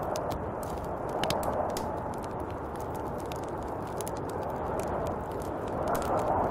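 Snowstorm wind blowing steadily, a dense rushing noise, with scattered small sharp ticks over it; a gust swells near the end.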